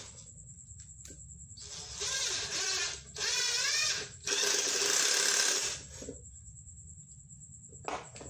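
Cordless drill motor run in three short bursts on the trigger, its pitch wavering as the speed changes during the middle run.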